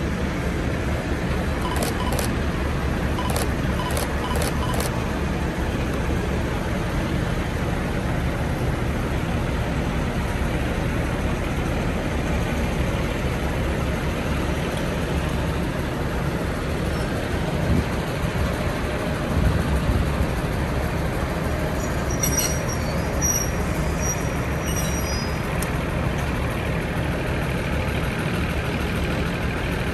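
DR2100-series diesel railcar running, a steady engine and rumble. A few sharp clicks come about two to five seconds in, and brief high squeaks a little over twenty seconds in.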